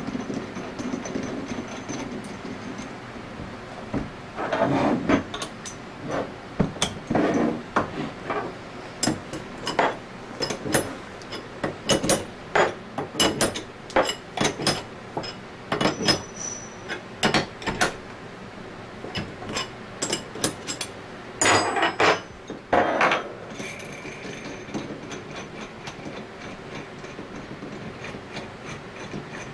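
Irregular sharp clicks and knocks of hand tools and metal parts handled and tapped on the bench during a scroll vacuum pump rebuild, busiest through the middle and easing off near the end.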